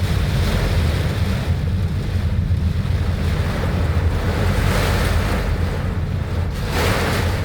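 Strong wind buffeting the microphone in a heavy rainstorm: a steady low rumble under a rushing hiss that swells about five and again about seven seconds in.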